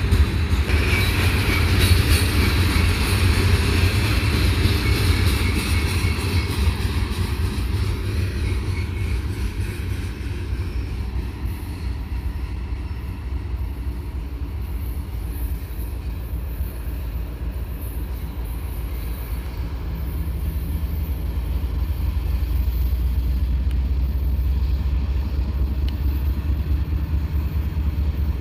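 Florida East Coast freight train with a steady low rumble, plus high-pitched wheel and rail noise in the first ten seconds that fades away; the rumble grows louder again after about twenty seconds.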